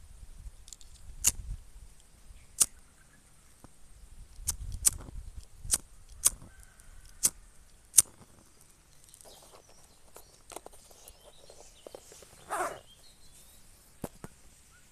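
A series of about ten sharp clicks or snaps at irregular intervals, most in the first eight seconds, over a low rumble.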